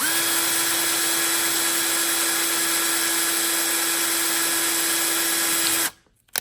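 Electric drill running at a steady speed with one constant whine, boring out a hole in a pinball stand-up target, then stopping abruptly about six seconds in.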